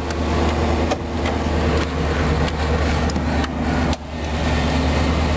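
1990 Chevrolet Suburban's 5.7-litre V8 idling steadily, with a few sharp clicks over it.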